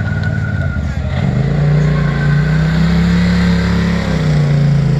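A rally vehicle's engine running loud under acceleration. Its note climbs about a second in, holds, then drops around four seconds in.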